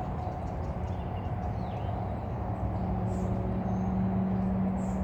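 Steady low rumble and hum, like a running motor, with the hum growing stronger about halfway through. A few faint, short bird chirps sound above it.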